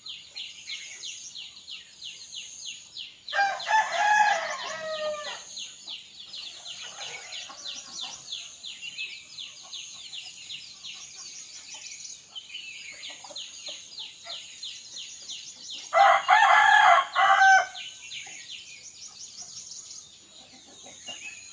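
A rooster crows twice: once about three seconds in, and again about twelve seconds later, louder. Between the crows a high, fast trilling carries on without a break.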